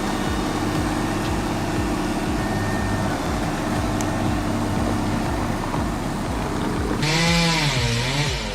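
A large engine runs steadily with an even low pulse. About seven seconds in, the sound switches abruptly to a different engine revving up and down.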